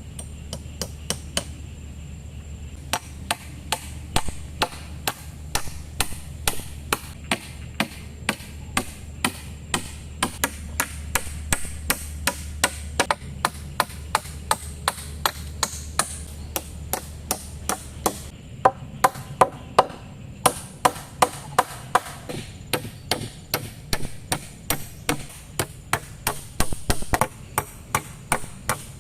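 Steady, rapid chopping of bamboo with a blade, about two to three sharp strikes a second. A low steady rumble underneath stops about two-thirds of the way through.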